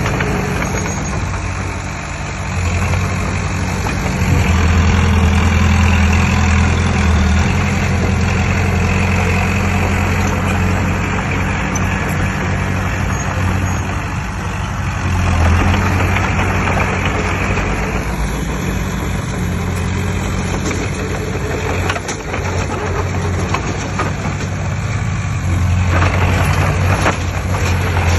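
Diesel engine of heavy earthmoving machinery running continuously, its revs rising and easing off several times as it works under load.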